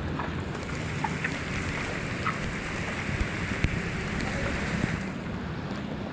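Floodwater rushing and splashing on a street, a steady noisy wash with a few faint ticks; the hiss is fuller for the first five seconds, then eases a little.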